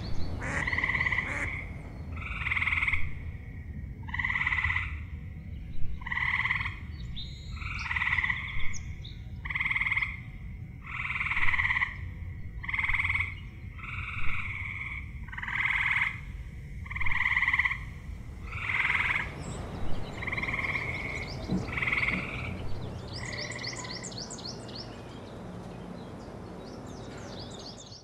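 Frogs calling: short pulsed trills repeated about every second and a half, which die away after about twenty-two seconds. Near the end a few bird chirps come in.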